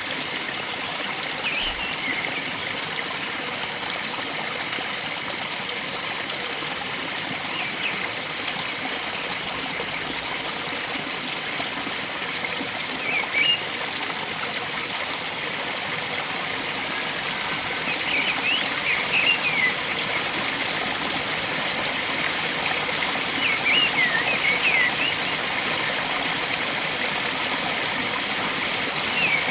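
Steady rush of flowing stream water, with short high bird chirps breaking in every few seconds, several in quick succession over the second half.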